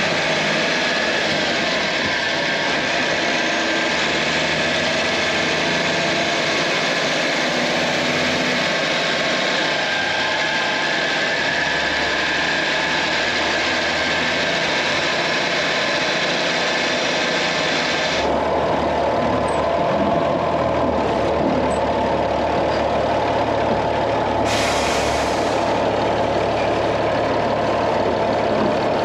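Turbocharged Unimog truck diesel engine idling, with a loud hiss over it that cuts off suddenly about 18 seconds in and returns briefly around 25 seconds.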